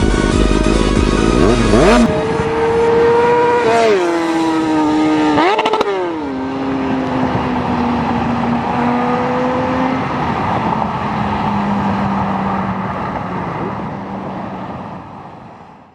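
Music that cuts off about two seconds in, giving way to a high-revving engine whose pitch drops twice and rises once, then slowly sinks as it fades away.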